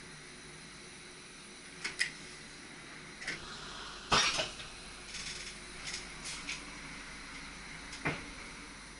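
Cab of an SGM Sprinter electric train: a steady low running hum with scattered sharp clicks and clinks at irregular intervals, the loudest about four seconds in.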